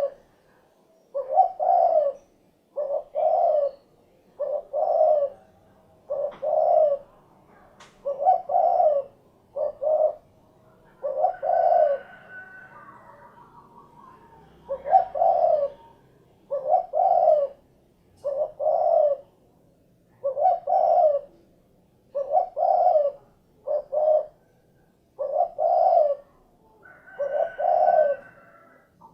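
Spotted dove (derkuku/tekukur) singing its cooing song: a short phrase of two or three notes, repeated over and over about every two seconds, with one longer pause a little before halfway.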